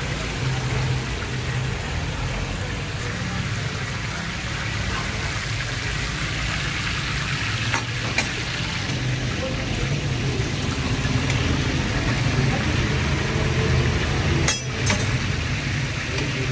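Chapli kababs sizzling steadily as they fry in a wide iron pan of hot oil, over a low hum. A few sharp clicks sound about eight seconds in and twice more near the end.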